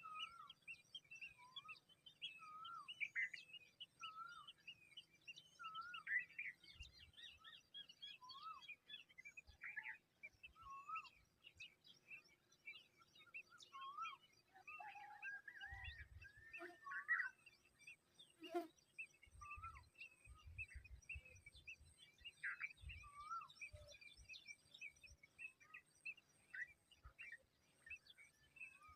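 Faint birdsong: a short, slurred whistle repeats every second or two among many quick, higher chirps. A few low thumps come in the second half.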